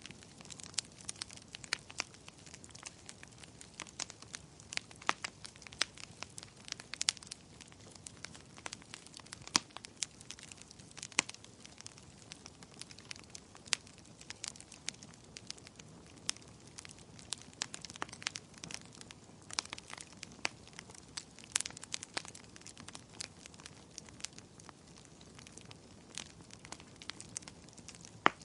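Wood fire crackling steadily, with frequent sharp irregular pops and snaps over a low hiss of burning.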